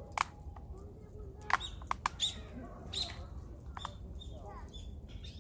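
Small birds chirping, with several sharp snaps and clicks scattered through.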